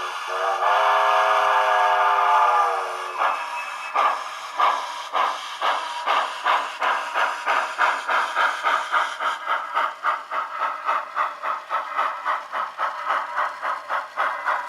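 Digital sound decoder of an HOn3 model 2-8-0 steam locomotive playing through a small cell-phone speaker: a steam whistle that breaks off briefly at the start and stops about three seconds in. Then steam exhaust chuffs begin slowly and quicken as the locomotive gets under way.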